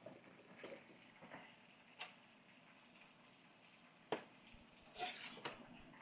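A few light clicks and knocks of kitchen containers and utensils being handled while seasoning food, the sharpest about four seconds in and a short clatter around five seconds in.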